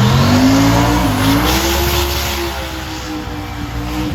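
Car doing a burnout: the engine revs up and holds at high revs while the tyres spin, then the revs fall away near the end.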